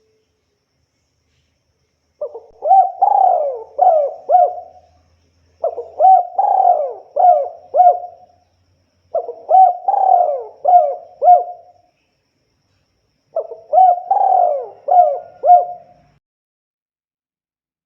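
Spotted dove (tekukur) singing: four cooing phrases a few seconds apart, each a quick run of several coos.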